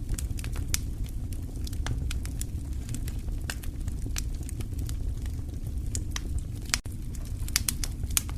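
Wood fire crackling in a fireplace: scattered sharp pops and snaps over a steady low rumble of the flames, with a quick run of pops near the end.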